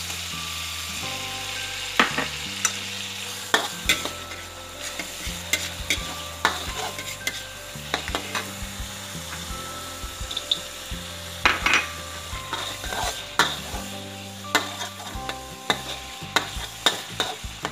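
Ground spice paste and sliced tomato sizzling in hot oil in a wok, stirred with a metal spatula that scrapes and clinks against the pan again and again.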